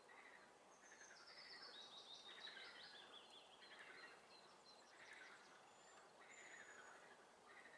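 Faint spring swamp chorus: short calls repeat about once a second, and near the start a songbird sings a rapid trill that steps down in pitch.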